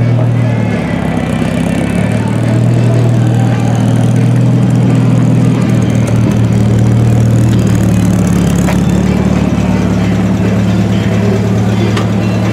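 Triumph TR4's four-cylinder engine idling, a steady low exhaust note.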